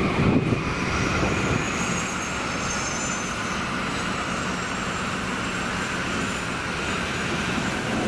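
Train passing the station at speed: a steady rushing rumble of wheels and motors, with a faint high whine in the first few seconds.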